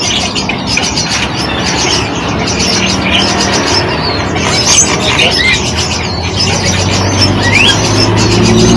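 Several small songbirds chirping and twittering in quick, short notes that rise and fall, over a steady background hiss. A low hum comes in near the end.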